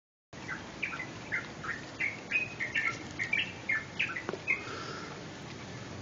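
Small birds chirping at dawn: a quick run of short high chirps, about three a second, that stops about four and a half seconds in.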